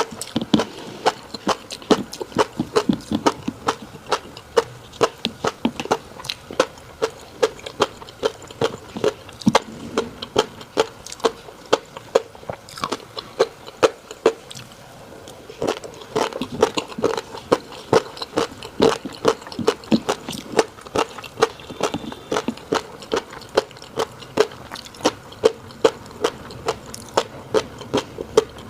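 Close-miked chewing of a rice bowl topped with fish roe: rapid rhythmic clicks and pops, about three or four a second, with a short lull about halfway through.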